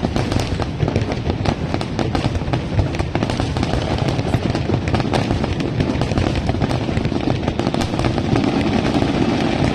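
Fireworks going off in rapid succession: a dense, continuous stream of sharp bangs and crackles over a steady rumble.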